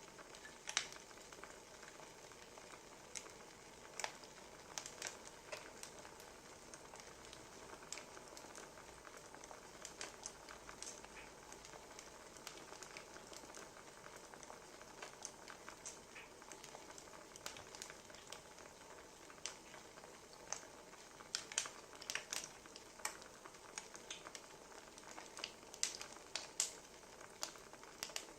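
Burning firewood logs crackling faintly: a steady soft hiss with irregular sharp pops and snaps, which come more thickly near the end.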